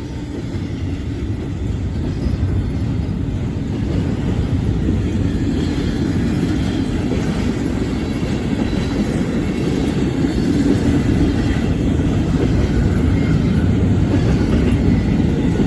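Cars of an intermodal freight train rolling past at speed: a steady rumble of wheels on rail with some clickety-clack, slowly getting louder.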